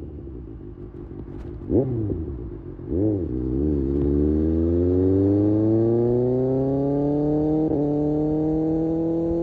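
Kawasaki Ninja ZX-6R inline-four engine slowing at first, then two quick throttle blips, then pulling away with the revs rising steadily, with a brief dip near the end.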